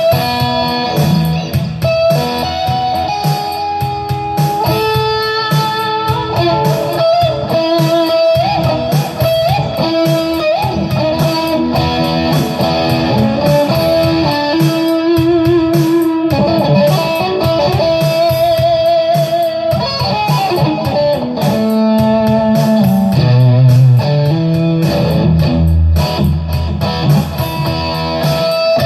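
Electric guitar improvising a lead: single-note scale runs and held notes with wavering vibrato, over lower sustained notes.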